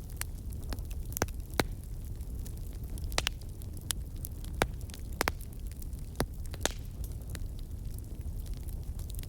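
Wood campfire burning: a steady low rumble of flames with irregular sharp crackles and pops from the burning wood, about a dozen, the loudest near the middle.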